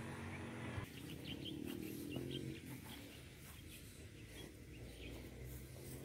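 Faint outdoor scene: a steady low hum cuts off about a second in, then small birds chirp several times. Faint crisp crackles of a Bali cow tearing grass as it grazes come through in the background.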